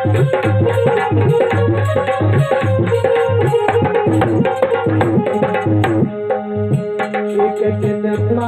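Instrumental devotional aarti accompaniment without singing: hand drums playing a fast, steady rhythm over sustained held melody notes. About six seconds in the drumming thins out and the held notes carry on.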